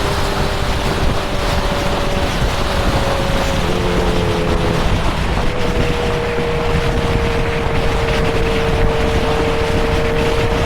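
Honda CB650R's inline-four engine running at steady cruising speed, with wind rushing over the microphone. The engine note changes about four seconds in, then holds steady.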